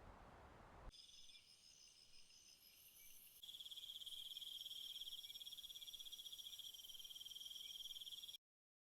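Night insects trilling in a high chorus: several steady trills come in about a second in, after a second of low background hiss, and a louder, shrill pulsing trill joins at about three and a half seconds. The chorus cuts off abruptly near the end.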